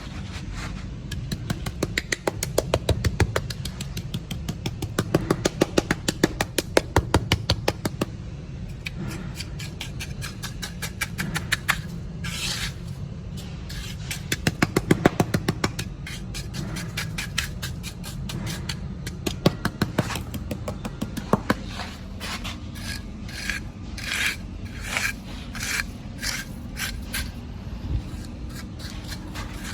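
Radio-controlled toy excavator and trucks working dirt: a low motor hum under rapid runs of clicking and bursts of scraping.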